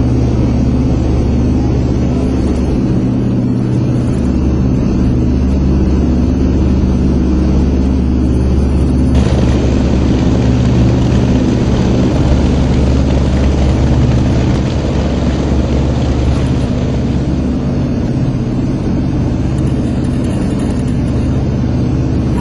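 Steady drone of the EC-121K Super Constellation's Wright R-3350 radial piston engines and propellers, heard from inside the aircraft. A brighter rushing hiss joins about nine seconds in and fades out around seventeen seconds.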